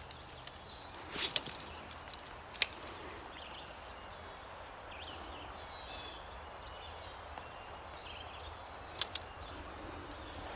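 Steady rush of a shallow creek's running water, with a few sharp clicks and knocks, one louder snap about two and a half seconds in, and faint bird chirps in the middle.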